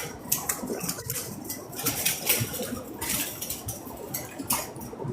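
Plastic tarp of a hoop barn crackling and rattling in gusts of high wind, in irregular bursts of a fraction of a second each, over a low rumble.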